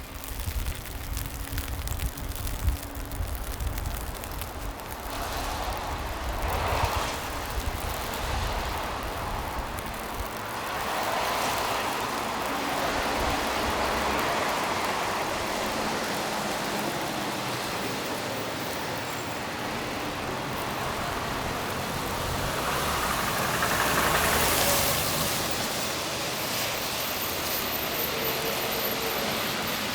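Snowy city street ambience with cars passing: three broad swells of tyre and engine noise as vehicles go by, about a quarter of the way in, near the middle and near the end, over a low rumble in the first third.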